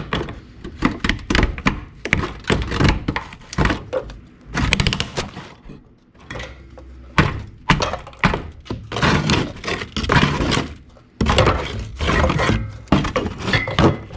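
Irregular clanks, knocks and thunks of hand tools and metal parts being handled and struck in a truck's engine bay.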